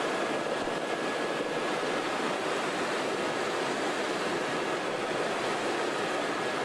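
Steady rushing noise of a helicopter in flight, heard from inside the cabin, with a faint thin high tone held steady through it.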